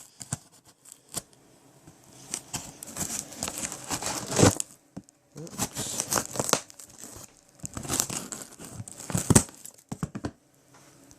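Packing tape being torn and peeled off a cardboard box, with the cardboard crinkling, in several separate bursts with short pauses between them.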